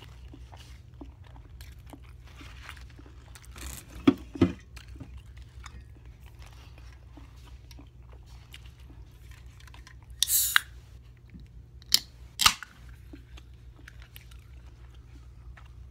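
Close-miked chewing of a toasted Subway veggie sub, a run of small soft mouth clicks and crunches. A pair of louder sharp knocks about four seconds in, a short hiss about ten seconds in, and two more sharp knocks about twelve seconds in stand out above the chewing.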